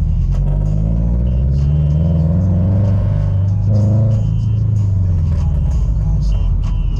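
Car engine and exhaust running, the low drone rising gently in pitch and easing off about four seconds in.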